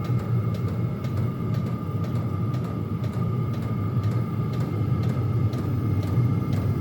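Chinese diesel heater running: a steady low combustion rumble with a steady high tone over it and faint clicks throughout.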